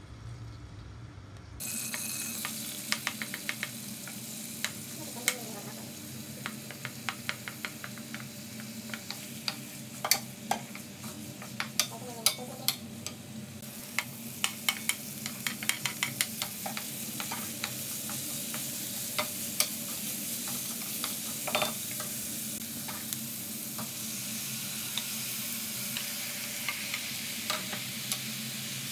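Sliced onions and garlic frying in hot oil in a wok. The sizzle starts suddenly about two seconds in as they hit the oil, with many quick clicks and taps of a wooden spatula stirring against the pan. Near the end the sizzle grows stronger as raw chicken pieces go in.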